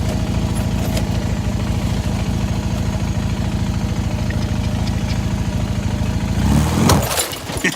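1985 Honda Nighthawk 450's parallel-twin engine idling with an even pulse, then a brief louder burst near the end before the engine sound cuts out.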